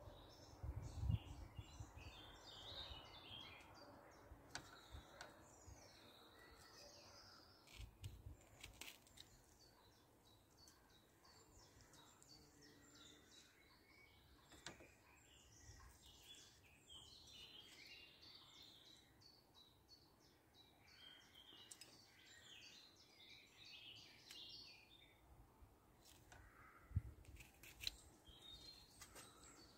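Faint chirping and song of small birds, going on throughout, with a few soft knocks and clicks from food being pushed onto a wooden skewer.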